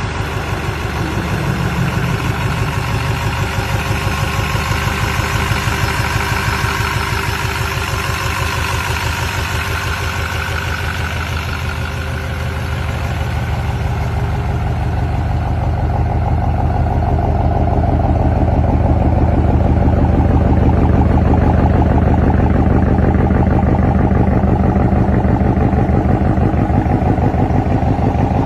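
Twin-turbo diesel engine of a Chevrolet pickup truck idling with a steady clatter, growing louder and fuller about halfway through.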